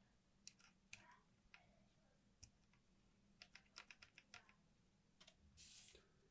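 Faint clicks and taps of small parts of a mechanical calculator being handled during restoration. There is a quick run of clicks around the middle and a short scraping rush near the end.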